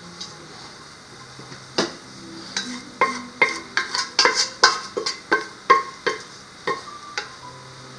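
Metal utensils knocking and clinking against cookware: about a dozen sharp strikes, each with a short ring, coming quickly from about two seconds in and stopping near the end, over soft background music.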